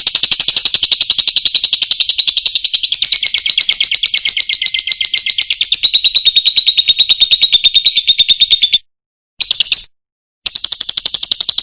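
A loud, rapid, high-pitched trill from a masteran call recording, about thirteen to fifteen pulses a second. It is held for about nine seconds, dropping slightly in pitch partway through, then cuts off suddenly. Two short bursts of the same trill follow near the end.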